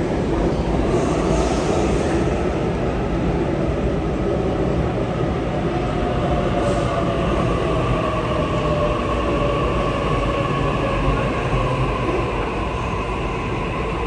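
Sydney Trains double-deck electric train rumbling along the platform, with a whine that slowly falls in pitch as it slows, typical of a train braking into the station.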